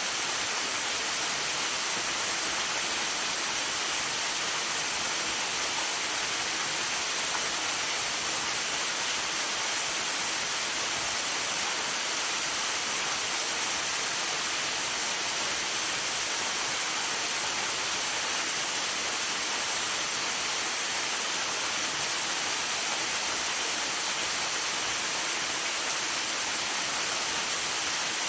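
Waterfall rushing in a steady, unbroken roar, mixed with falling rain and sleet, with the hiss strongest in the high range.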